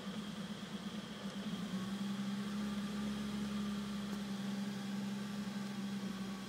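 BMW E34 M5's S38 straight-six engine idling with a steady hum that firms up and grows slightly louder about two seconds in. This is the rough idle the owner is chasing.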